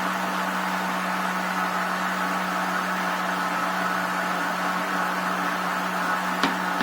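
Kitchen blender motor running steadily as it mixes a thick cake batter, an even hum. A single sharp click near the end.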